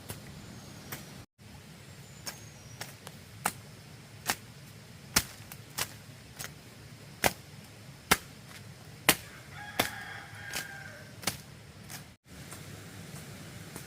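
Sharp knocks at irregular intervals, roughly one a second, typical of chopping or knocking on bamboo. A chicken gives a short call about ten seconds in.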